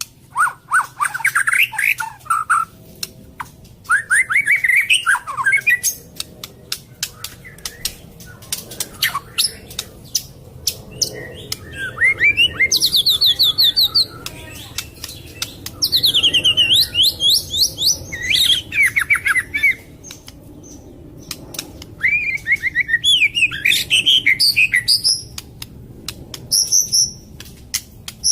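White-rumped shama (murai batu Medan) singing: bursts of quick, sweeping whistled notes and fast trills, broken by short pauses and interspersed with rapid sharp clicking notes. The song is a varied, mimicry-rich 'full isian' song.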